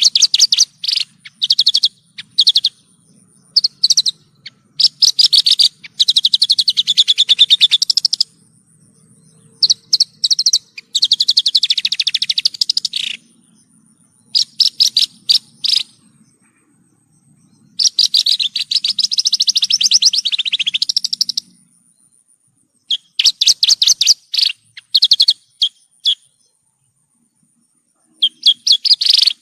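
Javan bush lark (branjangan) singing. Short clusters of quick, high chirps alternate with longer, rapid trilled phrases lasting two to three seconds each, with brief pauses between phrases.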